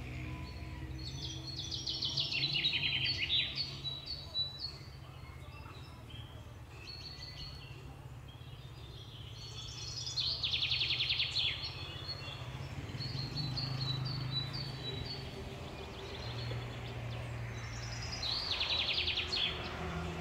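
A songbird singing a fast trill that slides downward, three times about eight seconds apart, with short chirps in between. A steady low hum runs underneath.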